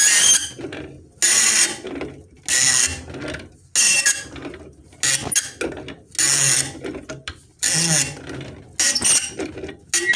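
Ratchet wrench being worked back and forth to tighten a fastener. Each return stroke gives a half-second burst of ratchet clicking, about eight strokes, a little over one per second.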